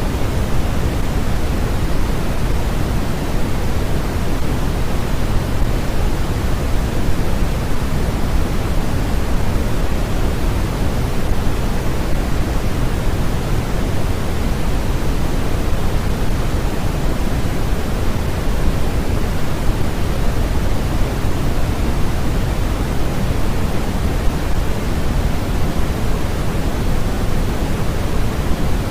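Steady generated noise for sleep, an even, unchanging hiss heavier in the low end, closer to pink noise than to flat white noise.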